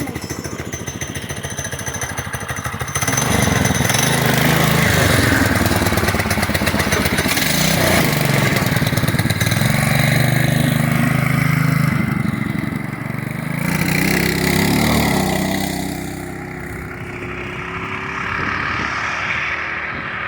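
Homemade trike's small engine idling with a fast, even putter, then revving up sharply about three seconds in and running under load, its pitch rising and falling repeatedly as it is ridden. It eases off somewhat near the end.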